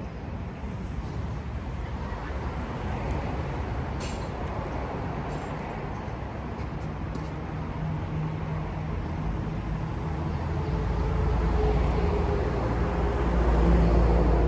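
Low rumble of nearby vehicle traffic. An engine hum grows louder through the second half, with a few faint clicks in the middle.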